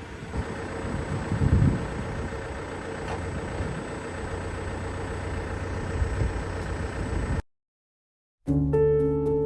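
Steady vehicle engine rumble with a steady hum, cutting off suddenly about seven seconds in. After a second of silence, piano music starts.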